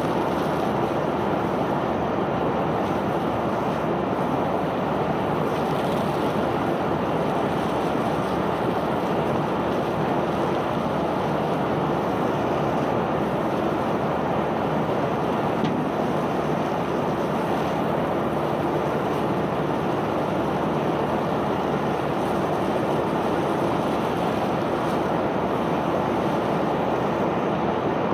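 Self-unloading barge's unloading machinery running steadily while discharging bulk cargo: a continuous, even rush and rumble with a faint steady hum.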